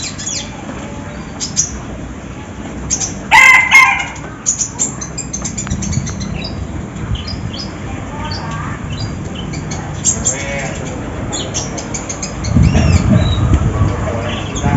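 Konin bird chirping in rapid, dense runs of short high notes. A louder, lower call cuts in briefly about three seconds in, and a low rumbling noise rises near the end.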